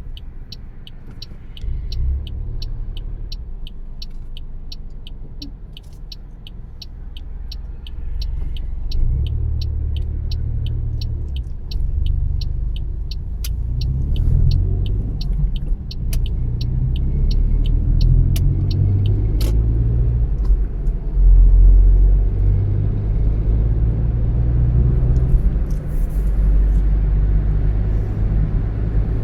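Car driving, its engine and road noise a steady low rumble that grows louder from about a third of the way in as the car speeds up. Over the first half a turn signal ticks about twice a second, then stops.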